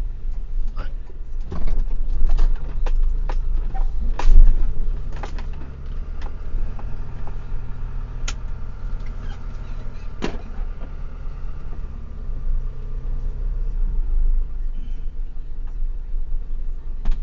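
A vehicle engine running with a steady low rumble, with scattered sharp clicks and knocks over it; the loudest knocks come about four, eight and ten seconds in.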